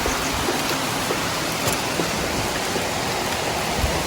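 Heavy wind-driven rain, a steady even hiss with a few faint light clicks.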